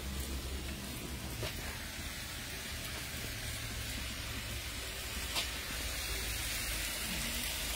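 Seasoned turkey frying in a pot, a steady sizzling hiss with a couple of faint ticks.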